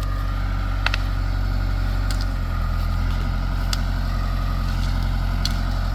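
An engine running steadily at low revs, its low note shifting slightly about two seconds in, with a few faint clicks over it.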